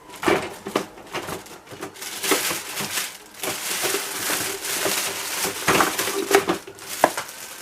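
Packaging being handled: sticky tape ripped off and wrapping crinkling in rough stretches, with scattered clicks and knocks.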